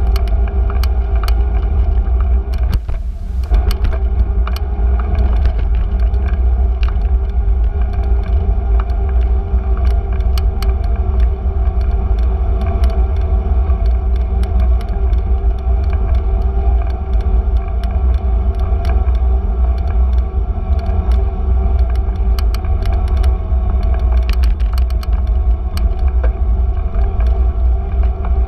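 Bicycle riding along a street, heard from the bike: a steady low rumble of wind and road with a constant hum from the tyres, and frequent small clicks and rattles.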